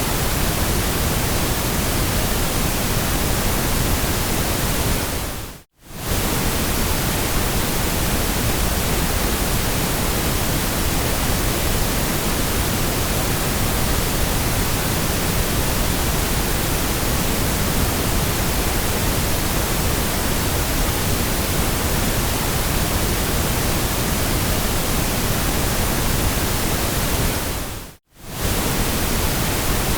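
Steady synthetic white noise, an even hiss across all pitches. It fades out to near silence for a moment and back in twice: about six seconds in and near the end.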